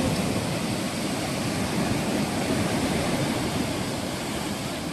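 Ocean waves washing onto a beach: a steady rushing surf, easing off slightly toward the end.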